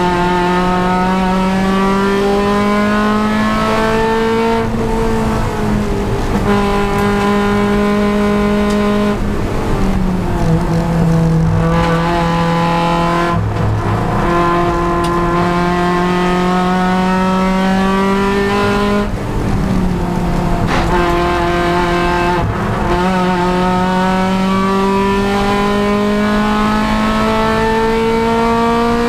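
Honda Civic Si race car's engine under hard running, its pitch climbing slowly and then dropping sharply about five times as the car shifts or lifts and brakes for corners.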